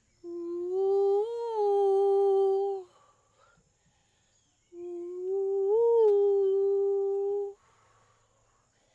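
A woman's voice humming a long, steady note twice, each held about three seconds, with a brief lift in pitch early in each note.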